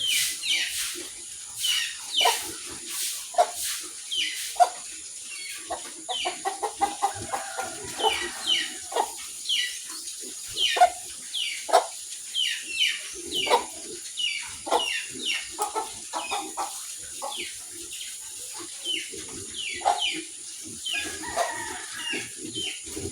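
Farmyard chickens clucking and calling, with many short, high, falling peeps repeating throughout.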